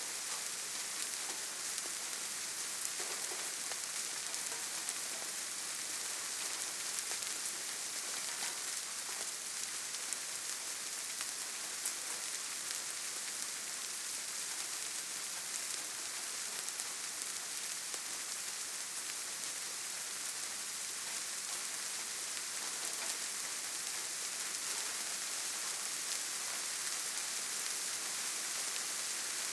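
Steady rainfall with a dense hiss and scattered individual drop ticks.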